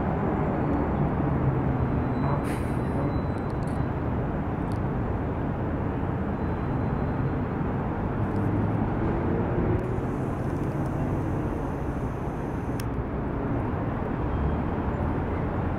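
Road traffic: car and truck engines running and idling steadily in slow, congested traffic, with a couple of faint short sharp sounds.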